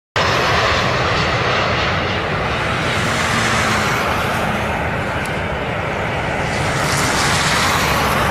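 Aircraft engines running, a loud, steady, even rush of noise that cuts in abruptly just after the start.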